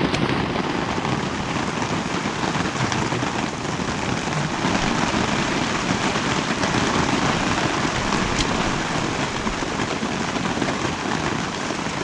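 Steady rain falling on a tarp shelter overhead, with a sharp drop or tick here and there.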